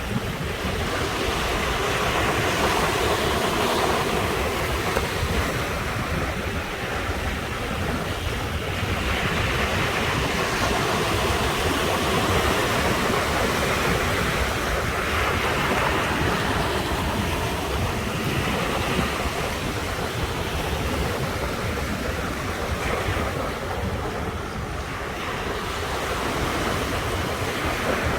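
Sea waves breaking and washing on the shore, a continuous rush that swells and eases every few seconds, with a low rumble of wind on the microphone.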